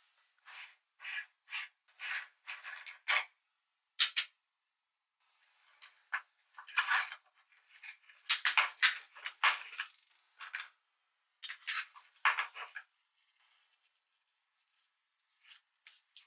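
A run of sharp metallic clinks and clatters, about two a second for the first few seconds, then scattered and irregular with short pauses.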